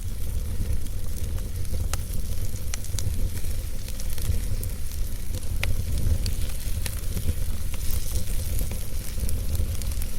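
Wood fire burning in a fireplace, crackling with scattered sharp pops and snaps over a steady low rumble and hiss.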